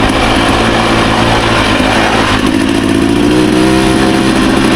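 Two-stroke dirt bike engine running steadily while riding along, its pitch rising slightly about three seconds in, over a steady rush of noise.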